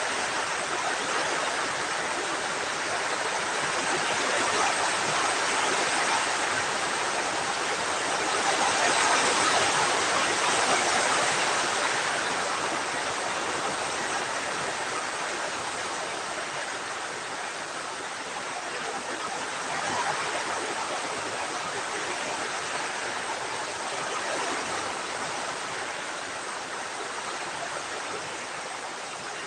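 Heavy typhoon rain pouring down, a steady rushing hiss that swells louder about a third of the way in and eases slightly toward the end.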